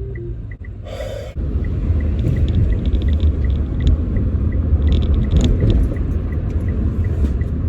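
Road and engine rumble inside a moving car's cabin, getting louder about a second and a half in, with a turn-signal indicator ticking about three times a second. A short loud rustle-like noise sounds about a second in.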